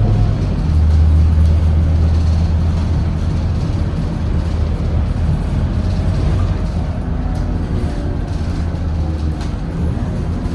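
Scania K230UB bus's five-cylinder 9-litre diesel engine running with a steady low drone, getting louder about a second in and easing off in the second half.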